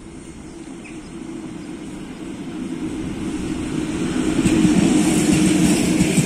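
EP2K electric locomotive hauling a passenger train, approaching and passing close by: a rumble with a hiss of wheels on rails that grows louder and is loudest as the locomotive goes underneath, with the carriages rolling past near the end.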